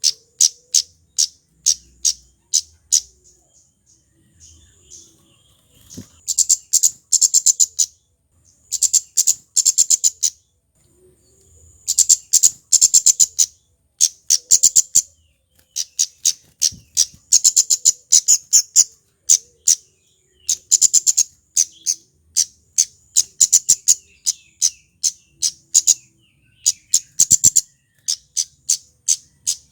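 Male kemade flowerpecker calling: a long series of sharp, very high ticks, now and then quickening into rapid trilled runs lasting about a second.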